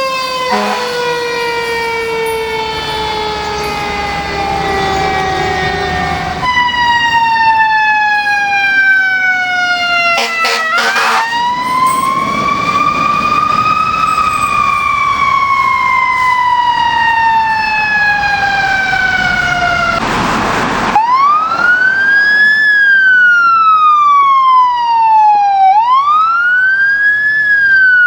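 Fire truck sirens, one after another: long slow falling tones that wind down, then one that rises for a few seconds and coasts down slowly. Near the end a wail siren sweeps up and falls about every five seconds, with a short rush of noise just before it.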